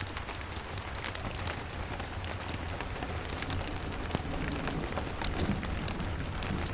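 Steady rain hissing, with many short sharp ticks and crackles scattered through it and a steady low rumble underneath.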